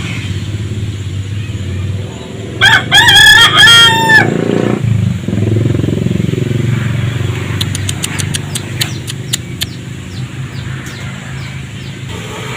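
Rooster crowing once, a single cock-a-doodle-doo of about a second and a half, over a steady low engine hum. A few seconds later comes a run of short sharp clicks.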